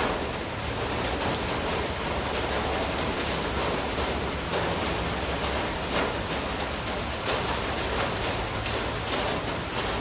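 Monsoon rain falling steadily, an even hiss with many sharp taps of drops striking surfaces scattered through it.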